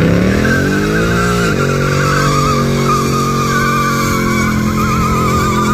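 Vehicle engine revved hard during a burnout, its pitch climbing for about a second and a half, then held at high revs, with tires squealing in a wavering high note over it.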